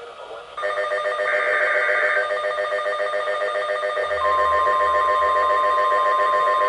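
Weather radio alert sounding: a pulsing, ringing electronic alarm of several tones starts about half a second in, with a brief burst of higher warbling data tones about a second later. From about four seconds in, the steady 1050 Hz NOAA Weather Radio warning alarm tone joins in, the signal that a warning is about to be broadcast.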